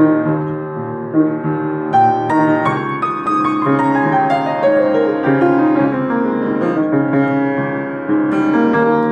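Solo piano improvisation: chords and melody notes struck one after another, with a run of notes falling in pitch about midway.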